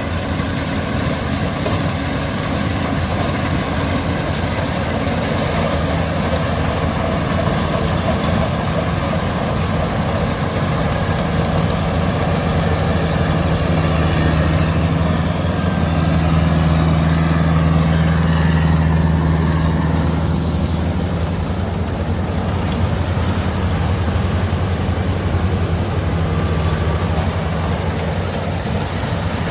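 LOVOL AF88 combine harvester's diesel engine running steadily with a low hum, growing a little louder around the middle before settling back.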